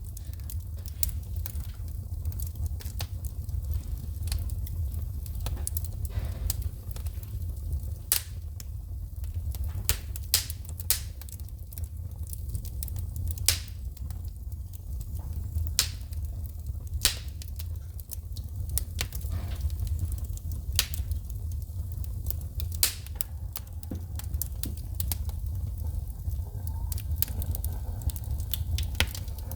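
Wood fire burning in a fireplace: irregular sharp pops and crackles as the logs spit sparks, over a steady low rumble of the flames.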